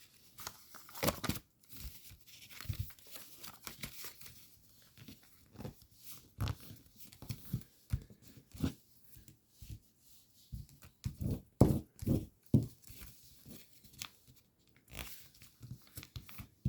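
A sheet of origami paper being folded and creased by hand: scattered short rustles and crinkles, the loudest in the second half.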